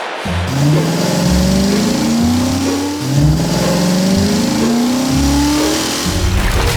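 Car engine sound effect revving hard, its pitch climbing, dropping back and climbing again several times as if accelerating through the gears.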